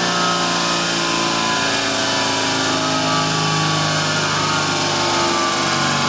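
1999–2004 Ford Mustang engine running on a chassis dynamometer, its note steady but drifting slowly lower in pitch, over a constant rushing noise.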